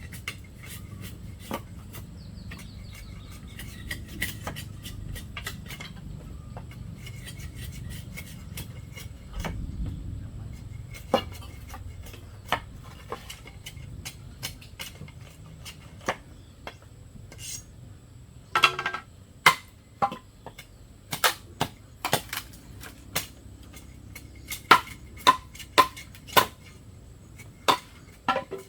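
Irregular sharp knocks and clacks of bamboo pieces being handled and fitted together while building a bamboo wall. Light and scattered at first, then louder, closer-spaced knocks over the last ten seconds.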